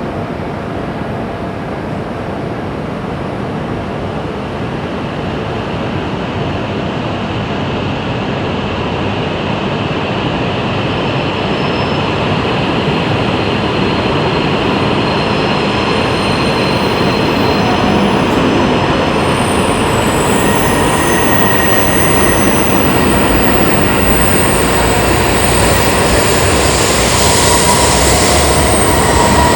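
Shinkansen bullet train moving along the station platform, its rumble and rush growing steadily louder. Thin high whining and squealing tones come in from about halfway through.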